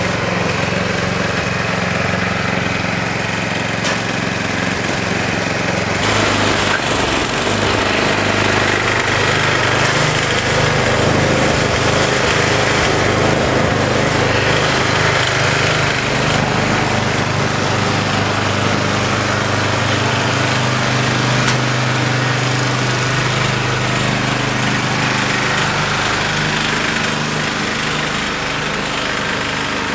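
Gas snow blower's engine running steadily under load. About six seconds in the sound changes, with more hiss and a shift in the engine note.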